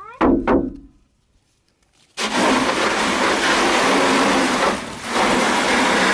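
Water from a garden hose spraying onto a car's trunk lid for a leak test: a loud, steady hiss that starts about two seconds in, with a brief dip a few seconds later.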